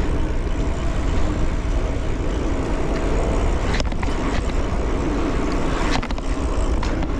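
Wind buffeting the microphone and tyre noise from a mountain bike riding fast downhill, with a couple of sharp clicks about four and six seconds in.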